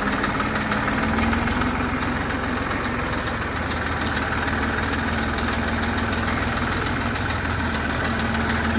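Tractor engine running at a steady speed, a constant low hum with no revving.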